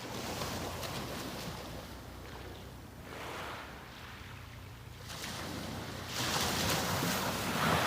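Small sea waves breaking and washing up on the beach, in swells a few seconds apart. The loudest wave builds from about six seconds in and peaks near the end.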